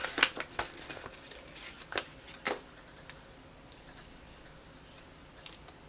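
Sticker sheets and planner pages being handled: a handful of sharp little clicks and paper taps in the first couple of seconds, then quieter rustling with a few faint ticks, as stickers are peeled and pressed onto the page.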